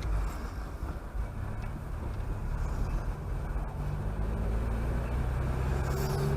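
Chevrolet Chevette on the move: engine and road rumble, the engine note rising slowly in the second half as the car speeds up.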